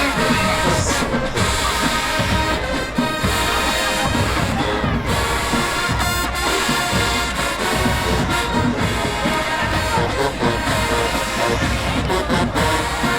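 Marching band playing a dance-feature tune, brass over a steady drum beat.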